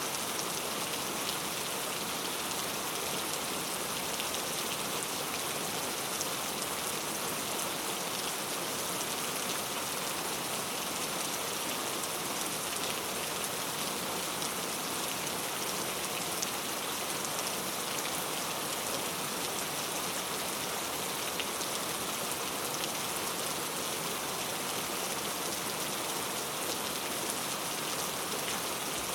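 Steady rainfall, a dense even hiss of drops pattering on a surface.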